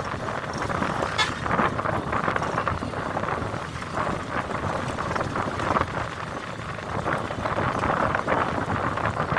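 A moving bus heard from inside: steady engine and road noise, mixed with wind and a few brief knocks.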